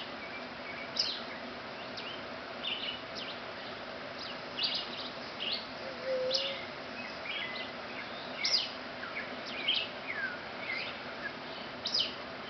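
Small birds chirping: short, sharp, high chirps come every second or so at irregular intervals, over a steady faint background hum.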